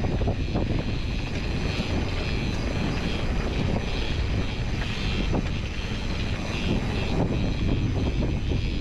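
Steady wind rushing over the microphone of a mountain bike rolling along a dirt trail, with the rumble and rattle of the tyres and bike underneath it.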